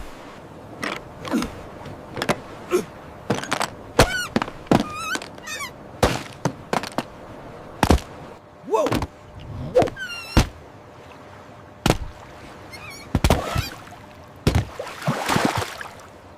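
A string of sharp knocks and thuds, with a few short chirping calls around four to five seconds in and again about ten seconds in, and a swelling rush of noise about fifteen seconds in.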